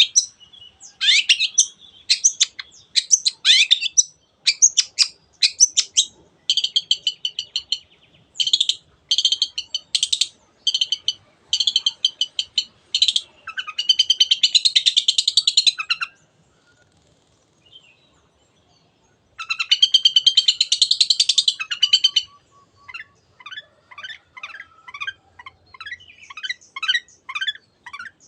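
Long-tailed shrike (cendet) singing loudly in bursts of short, sharp high notes. Two harsh rattling chatters come midway with a brief pause between them, then a quieter, fast run of falling notes near the end.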